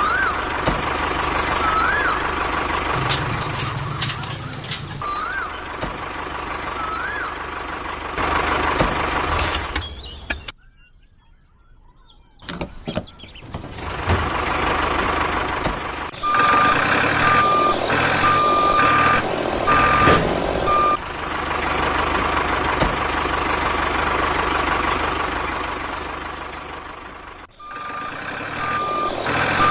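Electronic vehicle beeper over a steady motor hum: a few rising-and-falling chirps, then steady on-off reversing beeps. Everything drops out for about two seconds a little before the middle.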